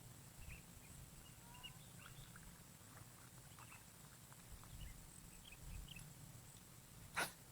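Near silence with faint, scattered small chirps and ticks, and a single sharp click about seven seconds in.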